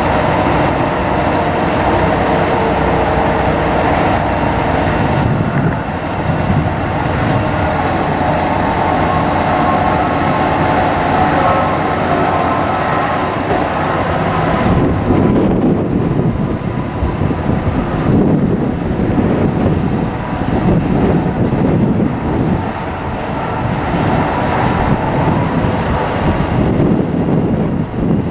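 Bucket truck running with its hydraulic boom system in use: a steady mechanical whine in the first half that gives way to a lower, rougher running sound about fifteen seconds in.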